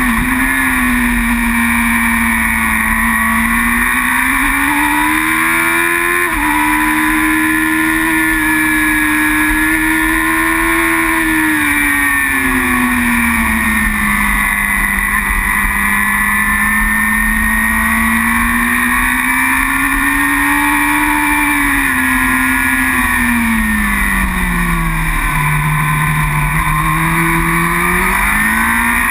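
Racing superbike engine under way, its note rising and falling with the throttle. It jumps up in pitch about six seconds in, as at a gear change, and dips low before climbing again near the end.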